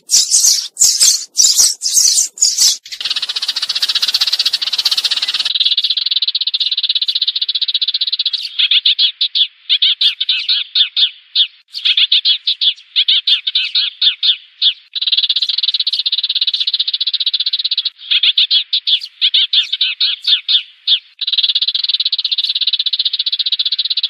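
Sparrows calling, a flock call played as a trapping lure: sharp separate chirps for the first few seconds, then rapid trilled chattering in bursts of one to three seconds with short breaks.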